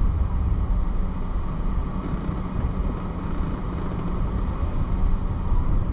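Car on the move heard from inside the cabin: a steady low rumble of engine and tyre noise.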